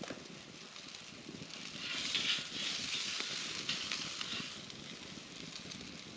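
Campfire crackling and hissing, with scattered sharp pops and a louder hissing swell from about two to four seconds in.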